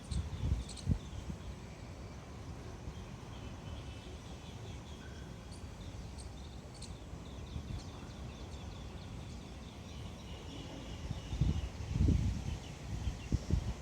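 Outdoor ambience: a steady low rumble of wind on the microphone, with small birds chirping in quick runs of short high notes. A few louder low buffets come near the end.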